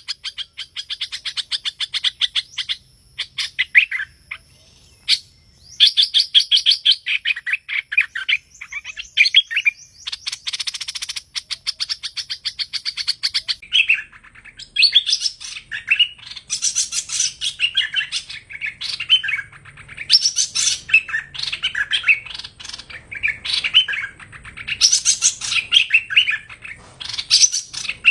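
Song of the bird known in Vietnam as 'hoành hoạch thơm': fast trilled phrases of rapidly repeated chirping notes, one after another, with a short pause about three to five seconds in.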